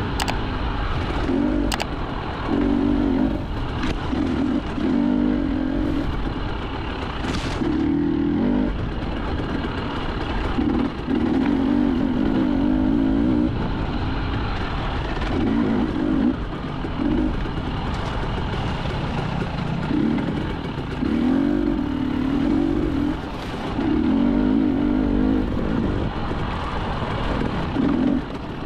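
Enduro motorcycle engine ridden off-road, the throttle opened and closed in short bursts every one to three seconds over a constant rush of noise.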